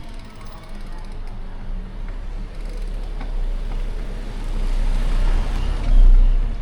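City street traffic heard from a moving bicycle, with a steady low rumble. A motor vehicle passing close swells louder and peaks near the end.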